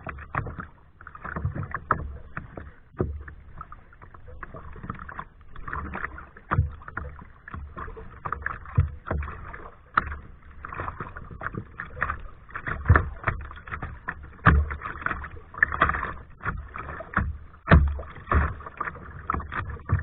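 Kayak paddle strokes: the blades dip and splash in the water every second or two, each stroke with a low knock.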